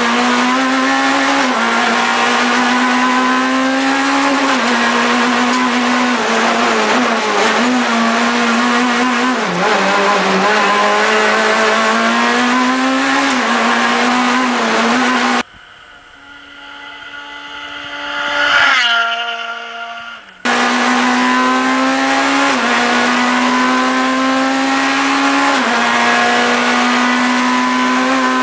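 Proton Super 2000 rally car's 2.0-litre naturally aspirated four-cylinder engine running hard at high revs, its pitch holding high and stepping up and down. About halfway through, the sound switches to the car approaching and passing by, growing louder and dropping in pitch as it goes past. It then switches back to the loud high-revving engine.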